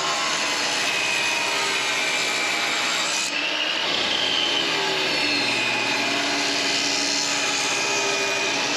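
Power saw cutting wood, running steadily with the blade pitch shifting slightly under load, with a brief dip about three seconds in.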